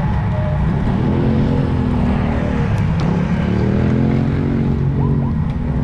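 Heavy wind rush on a riding cyclist's camera microphone, with a motor vehicle's engine note rising and falling in pitch as it passes.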